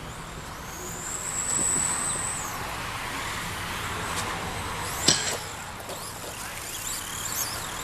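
Electric RC stadium trucks racing on a dirt track, their motors whining high and sweeping in pitch as they pass. A single sharp knock about five seconds in is the loudest sound.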